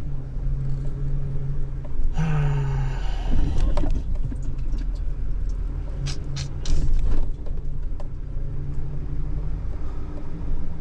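Toyota Tundra pickup running at low speed, a steady low engine and road rumble heard from inside the cab as it is driven slowly in reverse, the only gear its faulty transmission still engages. A few short clicks come about six to seven seconds in.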